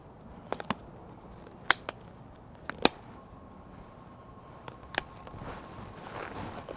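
Scattered sharp clicks and taps, mostly in pairs, from handling bicycle parts and tools by hand, over a faint steady high hum; a soft hiss swells near the end.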